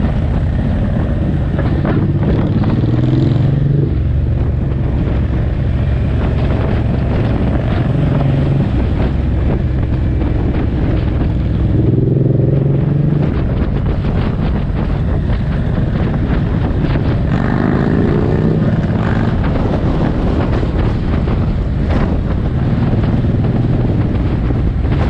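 Suzuki M109R's 1783 cc V-twin engine running steadily under way, with wind noise over it. The engine note rises a few times as the bike accelerates.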